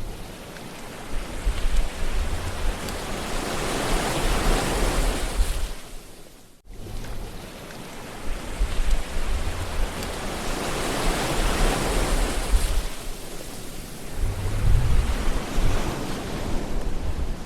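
Ocean waves washing ashore in two slow surges, each swelling and then fading, with low rumbling beneath. The sound drops out abruptly for an instant about six and a half seconds in.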